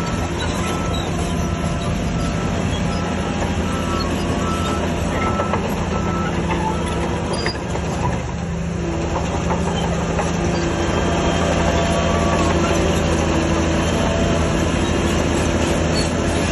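Shantui crawler bulldozer's diesel engine running under load, with the clank and squeal of its steel tracks. A short high beep repeats about one and a half times a second and stops about seven seconds in.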